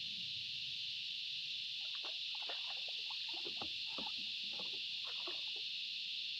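Steady, high-pitched insect drone, with a flurry of short chirping notes from about two seconds in to near the end.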